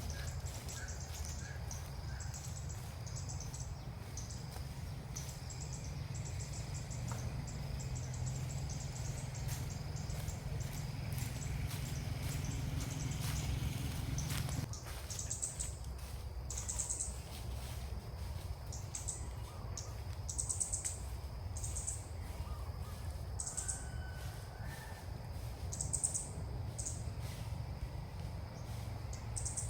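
Bulbuls calling in short, high, repeated notes, more often in the second half. Under them runs a steady low rumble that drops off about halfway.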